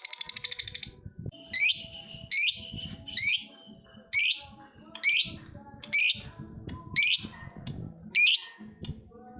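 Lovebird calling: a rapid, high chattering trill (the 'ngekek') that stops just under a second in, followed by about eight separate sharp, high shrieks spaced roughly a second apart.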